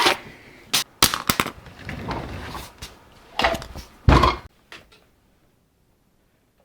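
A few sharp knocks and clatter with rustling handling noise, then a heavy thump a little after four seconds in.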